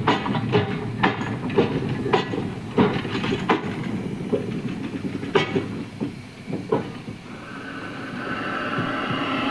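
Steam-hauled train passing, its wheels clacking over the rail joints in a run of sharp knocks about twice a second. About seven seconds in the knocks fade and a steadier, higher noise builds.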